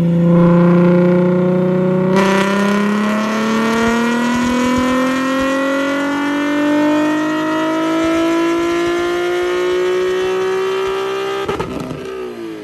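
Infiniti G37 sedan's 3.7-litre V6 at full throttle on a chassis dyno during its E85 tune: one pull with the engine note climbing steadily in pitch, louder from about two seconds in. Near the end the throttle is lifted and the revs fall away.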